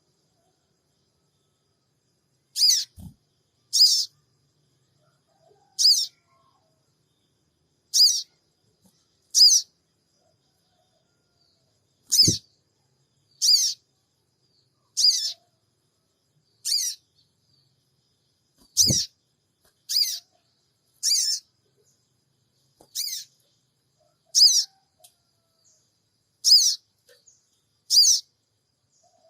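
Sogon bird giving a short, high 'cingik' call over and over, one call every one to two seconds. A few faint low knocks come in between.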